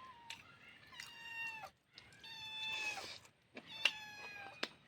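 A cat meowing repeatedly: about four drawn-out, high-pitched meows, each up to about a second long and falling slightly in pitch.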